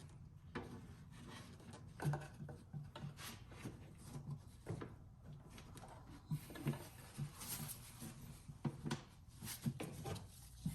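Hands handling and fitting plastic air-intake parts: scattered light clicks, taps and rubbing, a few sharper clicks about two seconds in and again near the end.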